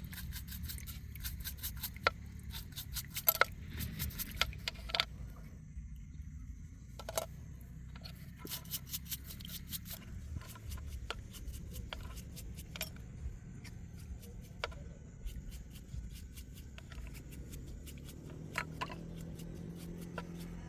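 Metal tools and parts clinking, tapping and scraping during hands-on repair work on a field harrow, with a few louder knocks in the first few seconds, over a steady low rumble.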